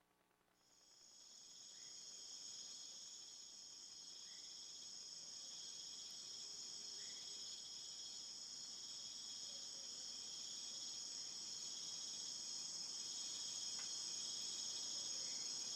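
Steady high-pitched insect chorus trilling without pause, fading in about a second in and slowly growing louder, with a few faint short chirps behind it.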